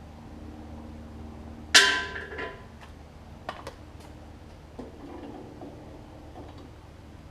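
Metal hand tools clanking on a mower blade and deck while the blade bolt is being undone with a wrench and socket. One loud, ringing metal clank comes about two seconds in, followed by a few lighter metallic clicks and taps.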